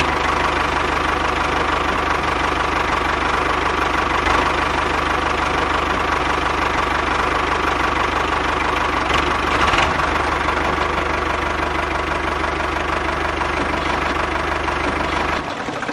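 Steady engine-like running sound for a miniature DIY toy tractor, holding one level throughout with a low hum under it.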